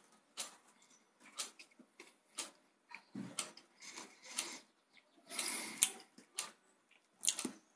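Close-up eating sounds of a person chewing cake: irregular soft mouth clicks and smacks, with a half-second rustle a little after five seconds in.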